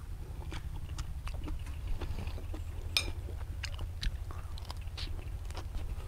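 A man chewing and biting into raw shrimp and fresh greens, with irregular short crunches and mouth clicks. A steady low hum runs underneath.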